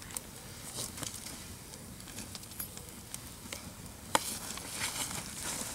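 Wood campfire crackling: a steady high hiss with scattered sharp pops, the loudest about four seconds in.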